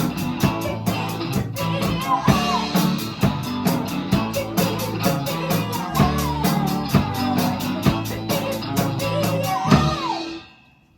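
Rock band playing live: drum kit with a steady cymbal beat, electric guitar and bass. Near the end the band stops on a final hit that rings out and fades away.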